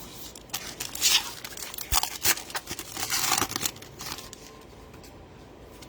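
Plastic wrapper of a trading-card pack being torn open and crinkled, a run of crackling rips with one dull knock partway through.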